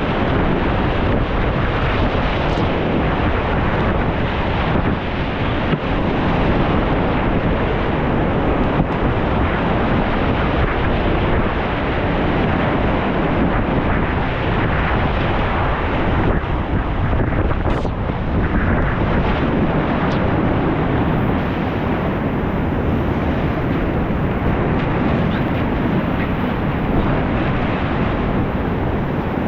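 Whitewater rapids rushing steadily and loudly, heard close on a kayaker's camera, with water and wind buffeting the microphone.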